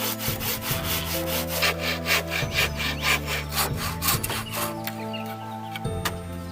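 Hand saw cutting through wood in quick, regular back-and-forth strokes, dying away about two thirds of the way in.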